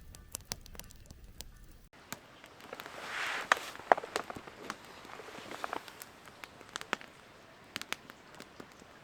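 Wood campfire crackling, with sharp irregular pops from the burning wood scattered throughout.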